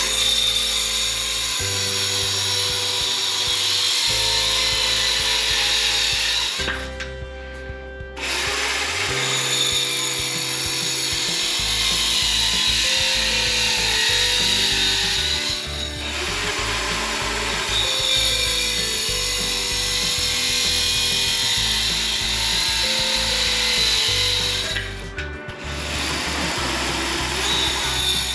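Circular saw cutting through wood in long passes, stopping briefly twice, over background music with a stepping bass line.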